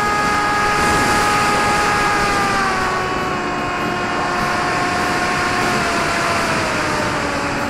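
Electric RC model plane's motor and propeller whining, the pitch sinking slowly as it throttles back or flies away, with gusty wind noise over the microphone.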